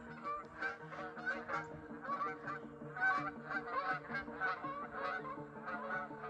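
A flock of geese honking, many short calls overlapping in quick succession without pause.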